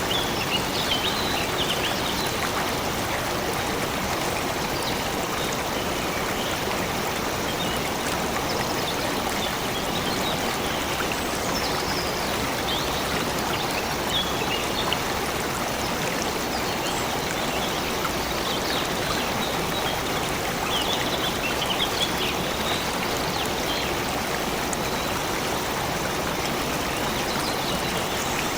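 Stream of water running steadily, with birds chirping now and then over it.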